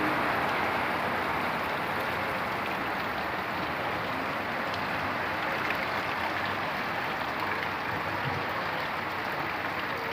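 Steady rain falling: an even, dense hiss with faint scattered ticks of drops.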